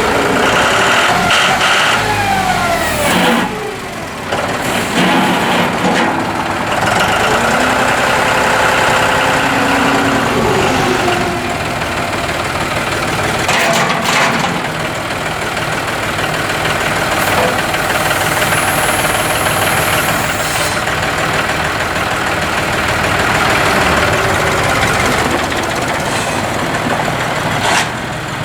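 John Deere 5065E tractor's diesel engine running, its engine speed rising and falling in places.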